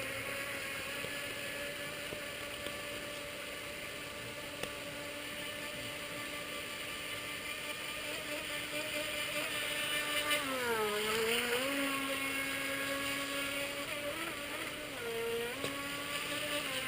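Feilun FT009 RC racing boat's electric motor whining at high speed with a steady pitch. The pitch dips and climbs back about ten seconds in, and briefly again near the end, as the throttle eases and reopens.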